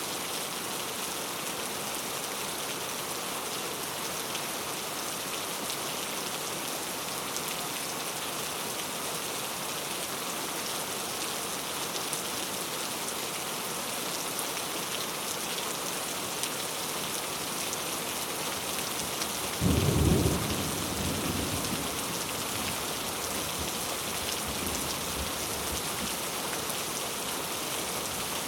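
Steady rain falling, with a single sudden rumble of thunder about two-thirds of the way through that dies away over a couple of seconds.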